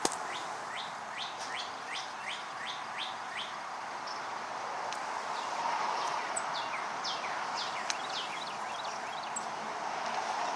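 Wild birds chirping: many short, quick falling chirps in overlapping runs, over a steady background hiss.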